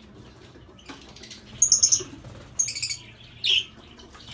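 Lovebirds chirping: two quick bursts of shrill, high chirps, then one shorter, lower call near the end.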